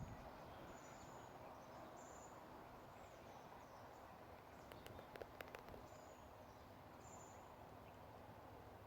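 Faint outdoor ambience with a short, high chirp repeating roughly once a second, and a brief cluster of small clicks about five seconds in.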